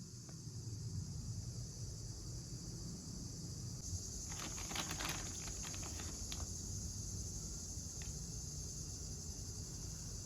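Crickets chirring in a steady, high-pitched drone that grows louder about four seconds in. A quick cluster of clicks and crackles comes in the middle, over a low rumble.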